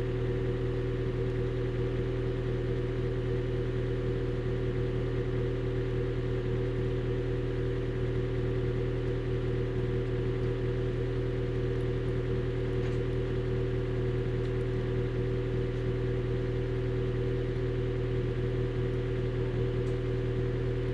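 Honda Shuttle Hybrid's 1.5-litre four-cylinder engine idling steadily through an HKS Silent Hi-Power aftermarket exhaust. The engine is held running in maintenance mode, so the hybrid system does not shut it off.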